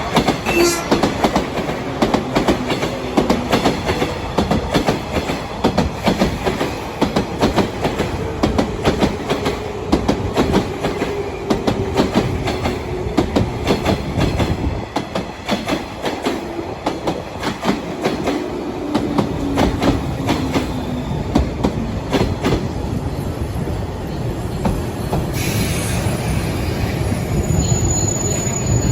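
Train pulling in: a rapid clatter of wheels over rail joints and a faint tone that slowly falls as it slows. Near the end comes a hiss with a thin high squeal.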